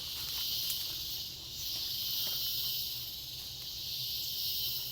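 Rainforest insect chorus: a dense, high, continuous buzz that swells and eases in slow waves every second or two, with a faint low rumble underneath.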